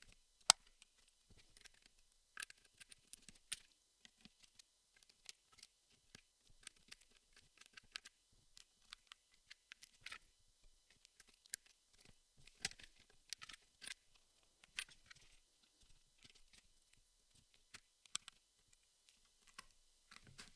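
Jigsaw puzzle pieces being handled and pressed into place: quiet, irregular clicks and taps with light scraping, one sharper click about half a second in.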